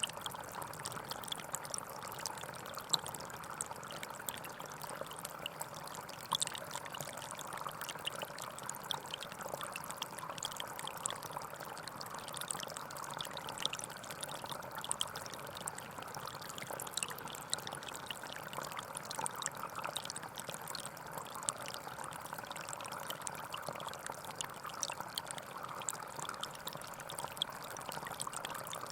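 Small forest stream flowing steadily over stones, with a constant burbling and many small splashes and trickles.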